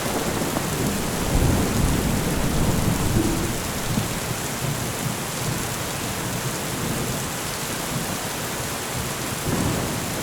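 Steady rain with rolling thunder. Low rumbles swell in the first few seconds, fade into the rain, and rise again near the end.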